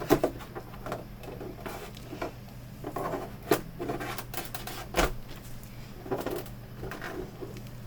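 Plastic pry tools scraping and levering along a monitor's plastic bezel, with irregular plastic clicks and creaks as the clips are worked; a few sharper clicks, the loudest about five seconds in.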